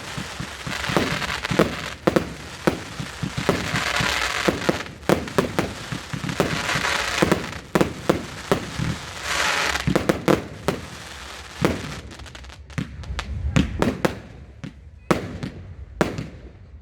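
Fireworks going off in quick succession: a dense run of sharp bangs and pops with swells of crackling hiss, thinning out to scattered bangs over the last few seconds.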